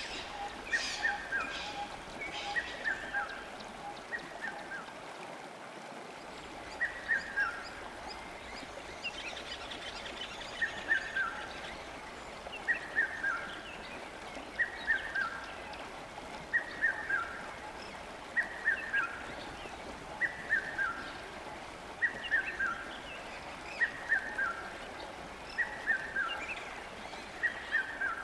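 A songbird repeating a short, falling two- or three-note call about every two seconds, over the steady rush of a river. Other birds chirp briefly near the start.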